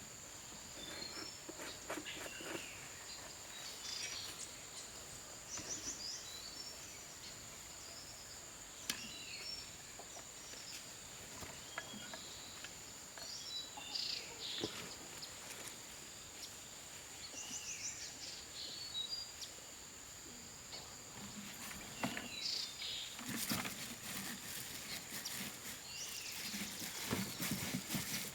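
Rural outdoor ambience: an insect's steady high-pitched drone, with short bird chirps scattered through and a few light knocks.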